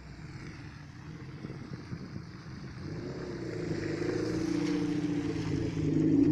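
A car engine running, low and steady at first, then growing steadily louder from about three seconds in as a car approaches.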